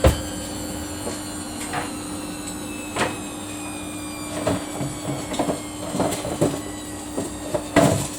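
Samsung washing machine running a Daily wash 30 cycle with a steady hum, broken by irregular knocks and clunks, the loudest near the start and near the end.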